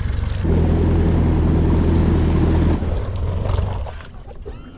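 Duck boat's outboard motor running under power, getting louder about half a second in and dropping off about three seconds in.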